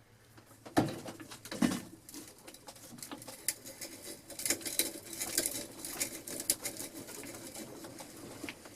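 Vintage hand drill cranking an auger bit against wood: two knocks as the bit is set, then a run of quick irregular clicks and scraping as the bit turns without biting in.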